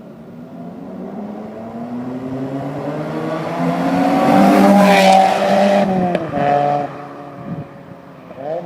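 Mazda Roadster NC (MX-5) four-cylinder engine fitted with a Suruga Speed aftermarket muffler and SARD exhaust manifold, accelerating with its exhaust note climbing steadily in pitch and loudness to a peak about five seconds in. The pitch drops sharply around six seconds in, and the revs climb again near the end.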